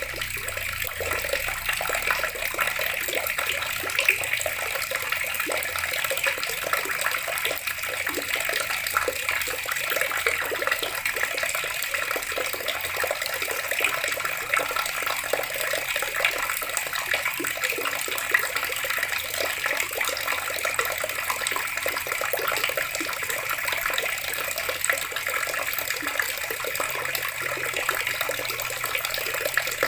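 Water tap running steadily, the stream splashing without a break.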